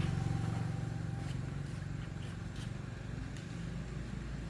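A steady low engine hum, with a few faint clicks in the middle.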